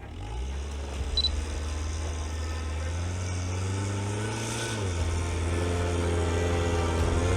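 All-terrain vehicle engine pulling under load on a snowy climb. Its revs rise slowly for nearly five seconds, then drop suddenly and hold steady.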